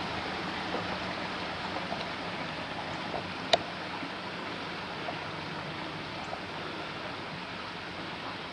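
Floodwater rushing steadily over a flooded road, a constant hiss of running water, with one sharp click about three and a half seconds in.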